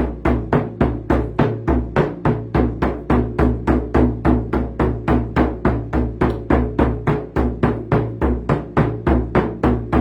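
A drum beaten in a rapid, even rhythm, about four beats a second, each beat leaving a low ringing tone under it.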